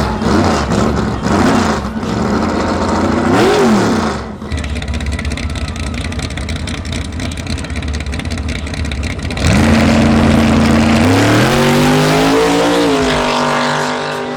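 Drag-racing car engines: several quick rev blips, then a low idling rumble. About nine seconds in, a much louder engine comes in, holds a steady high note, then climbs in pitch as the car launches and accelerates away, easing off near the end.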